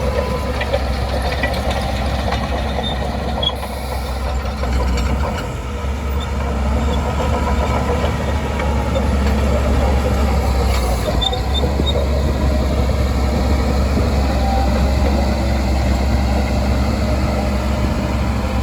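Diesel engine of a Shantui DH17C2 bulldozer running steadily under work; it eases off briefly about four seconds in, then runs louder from about seven seconds on.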